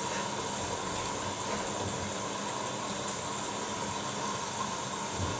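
Washing machine at the start of its final rinse, running with a steady hiss and a faint steady hum.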